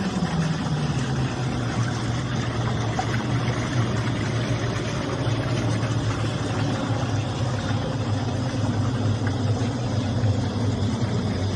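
An engine running steadily; its pitch drops just after the start as the revs fall, then holds level.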